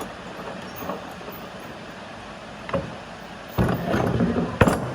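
A few short sharp knocks over a low steady background. A louder stretch of rumbling clatter comes near the end, followed by the loudest knock.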